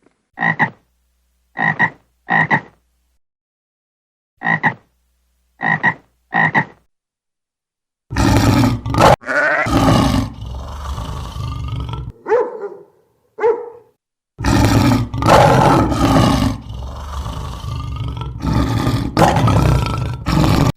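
Animal calls: six short, sharp calls in two sets of three, then after a pause a louder, rougher run of calling with brief breaks.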